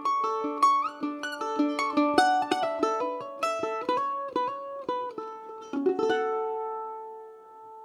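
Mandolin picked quickly in a run of single notes, ending about six seconds in on a final strummed chord that rings out and fades.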